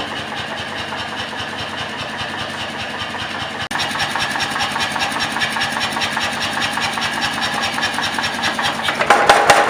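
Mechanical power hammer running idle between blows: its motor runs steadily with a light rhythmic knocking several times a second, and heavy hammer blows resume near the end.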